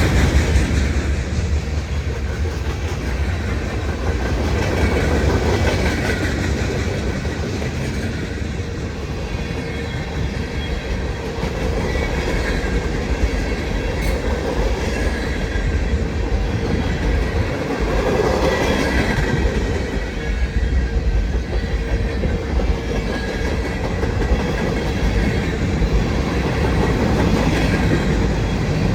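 Loaded freight train cars rolling past: a steady rumble of steel wheels on rail, with the rhythmic clickety-clack of wheel sets over rail joints, swelling and easing slightly as the cars go by.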